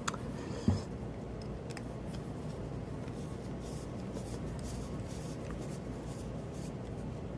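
Light clicks and faint scraping as the small metal parts of a folding knife and a screwdriver are handled during reassembly, with a soft knock under a second in, over a steady low hum.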